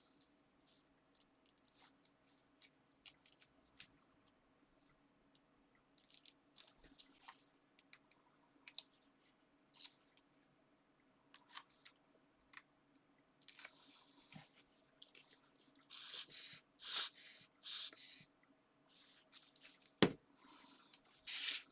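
Paper and card being handled on a craft desk: scattered faint rustles and small taps, a run of short crinkling rustles about two-thirds of the way in, and one sharp knock near the end.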